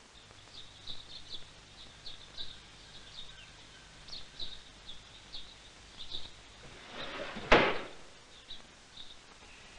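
Small birds chirping again and again in short high calls, with one loud sudden thump about seven and a half seconds in.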